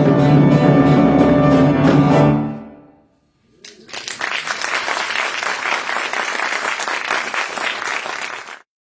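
A live ensemble's last sustained chord rings and fades out over about half a second, then a short pause, then an audience applauding steadily for about five seconds until the sound cuts off suddenly.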